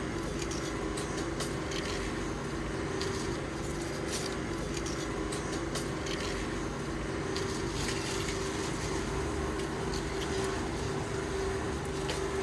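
A steady mechanical hum with a constant low tone, over a clutter of light clicks and knocks.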